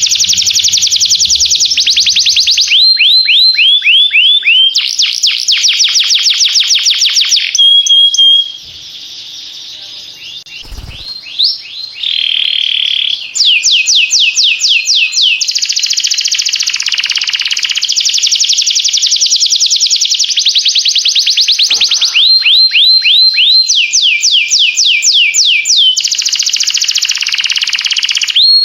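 Domestic canary singing: fast trills of rapidly repeated notes alternating with runs of downward-sliding whistles. The song breaks off about a third of the way in for a few quieter seconds, with a short soft knock, then resumes.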